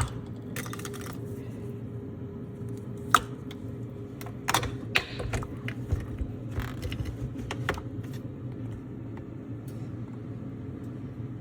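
Scattered clicks and knocks of objects being handled over a steady low hum.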